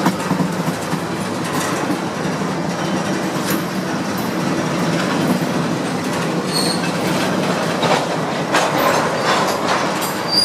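Freight train cars rolling past, steady rumble with scattered clacks of wheels over rail joints, and a brief high wheel squeal about two-thirds of the way through.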